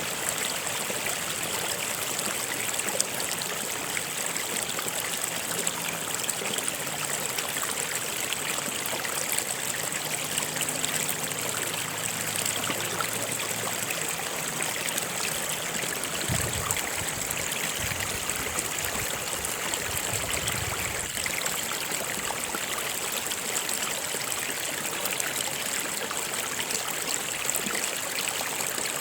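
Stream water flowing steadily, an even rushing and trickling with no pauses.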